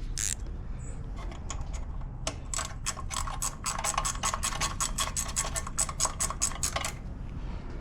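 Hand ratchet wrench clicking in a fast, even run of about six clicks a second, driving a bolt down during reassembly of the engine's cylinder head.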